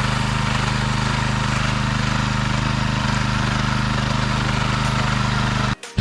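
Mini tractor's small engine running steadily at an even pitch, briefly cutting out just before the end.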